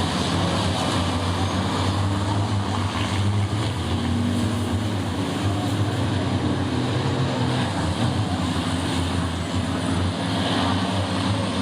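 Racing trucks' heavy diesel engines running on the circuit: a steady, continuous drone with no single pass standing out.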